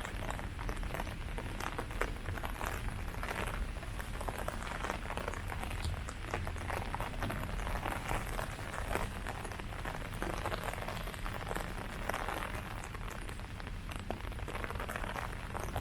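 Steady rain falling on leaves, with many small drop patters over a low rumble.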